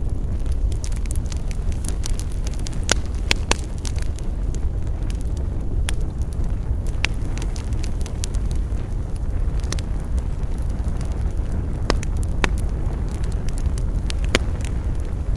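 Wood fire crackling: irregular sharp pops and snaps over a steady low rumble, with a handful of louder pops scattered among many faint ones.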